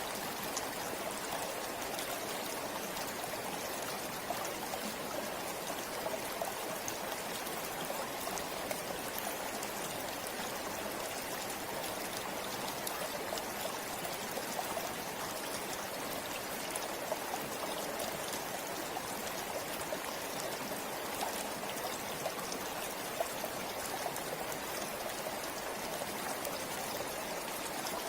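A forest river flowing steadily: an even rush of water, with small splashes and trickles flicking through it.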